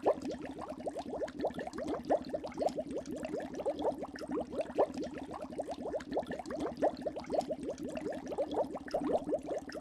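Rapid bubbly gurgling, a steady stream of short rising pops about six or seven a second over a low steady hum, played as the sound of a seahorse.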